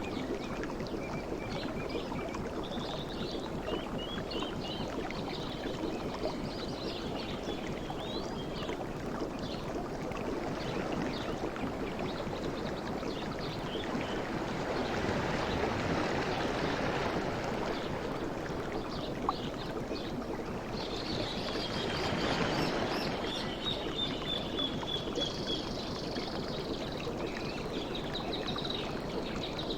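Sea waves washing ashore in a steady rush that swells and ebbs, with two larger surges partway through. Faint high chirps come and go over the surf.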